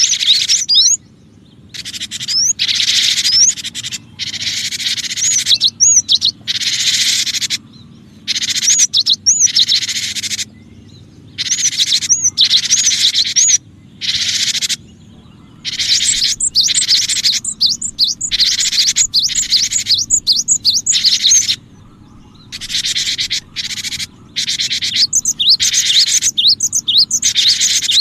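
Cinereous tit (gelatik batu) calling: repeated bursts of harsh, scolding chatter, each half a second to two seconds long, mixed with quick upward-sweeping notes, over a faint steady low hum.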